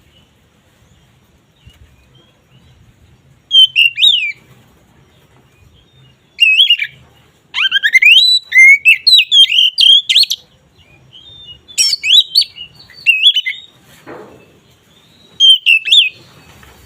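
Oriental magpie-robin (kacer) singing: five bursts of loud, varied whistled phrases with quick up-and-down sweeps and some high squeaky notes, split by short pauses, the longest burst running for about two and a half seconds in the middle.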